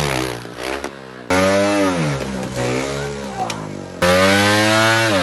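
Trials motorcycle engine revving hard in bursts, the pitch rising and then falling with each burst; the sound drops back and comes in again suddenly about a second in and again near the end.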